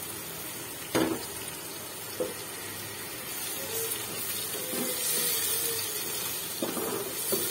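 Raw peeled shrimp sizzling and frying in hot oil and spice paste in a pot as they are stirred in, a steady hiss that swells a little toward the end. A sharp knock about a second in, with a few softer ones later.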